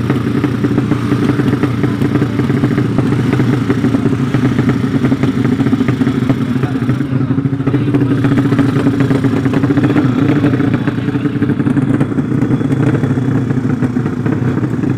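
Racing motorcycle engines of the 200cc horizontal-cylinder 'sleep engine' drag class, running steadily at a held pitch over a haze of background noise.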